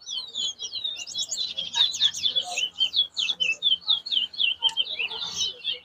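Towa-towa (chestnut-bellied seed finch) singing a long, rapid run of chirping notes, about seven a second, one of the songs counted in a bird-singing race.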